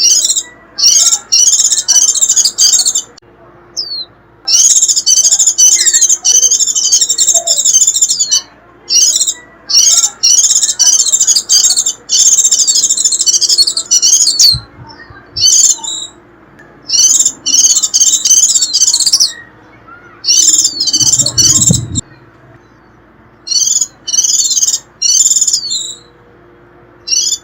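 White-eye (vành khuyên) giving its rapid, high-pitched twittering 'rít' song in repeated bursts of one to three seconds, separated by short pauses, with a few single short rising notes between them. This is the call played as a lure to draw wild white-eyes in.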